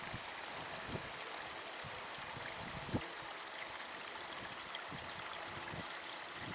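Steady rush of running water, with gusts of wind thumping on the microphone, the strongest about three seconds in.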